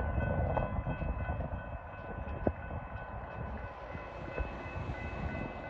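Low, steady rumble of an approaching Norfolk Southern freight train, with a faint steady high tone over it and one sharp click about two and a half seconds in.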